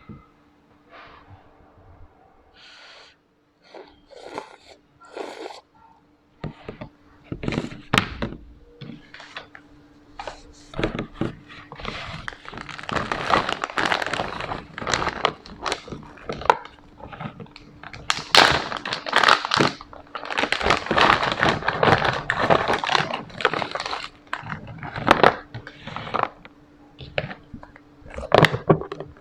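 Close-up handling sounds: a string of clicks and knocks with crinkling, rustling noise, busiest through the middle, over a steady low hum.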